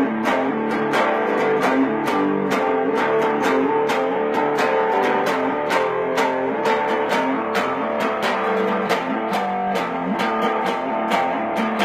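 Instrumental break in a rock song: guitar playing with a steady, regular beat.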